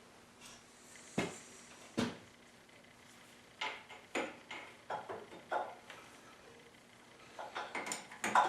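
Metal tools and parts being handled and set down: two single knocks, then two clusters of clinks and clunks.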